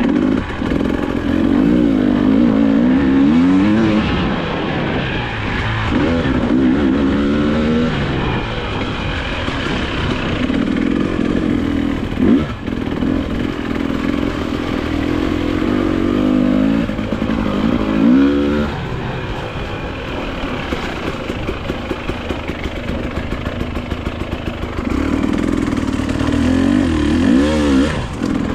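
A 2022 Husqvarna TE300i single-cylinder two-stroke dirt bike being ridden hard off-road, its engine revving up and down over and over as the throttle is opened and closed. There are a couple of sharp knocks partway through.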